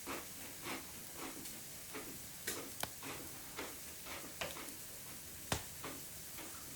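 Wood fire crackling: irregular small pops and snaps over a faint steady hiss, with two sharper snaps, a little before three seconds in and at about five and a half seconds.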